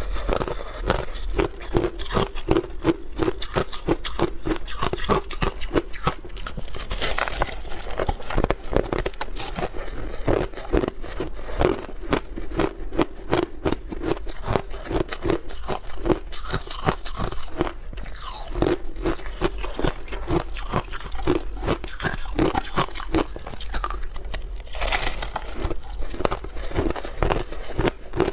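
Close-up crunching and chewing of block ice: a dense run of rapid, crisp crunches, with a few louder bites standing out along the way.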